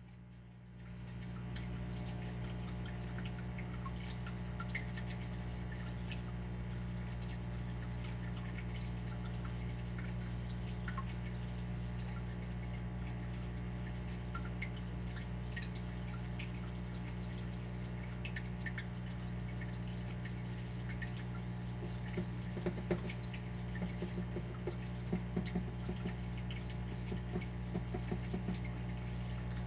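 Water dripping, with irregular drops and small splashes over a steady low hum. It fades in over the first second or so, and the drops come thicker and lower-pitched near the end.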